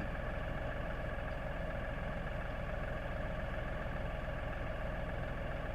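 LS 4135 compact tractor's diesel engine idling steadily.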